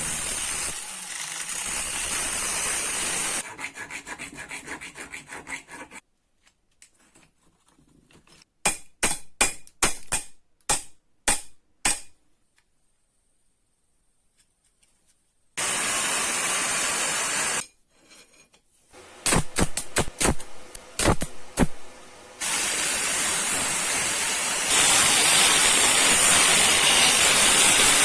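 Workshop sounds from restoring an old adjustable wrench: stretches of steady rubbing or abrasive noise, a run of quick rhythmic scraping strokes, and two clusters of sharp metallic clicks or taps, separated by abrupt silences.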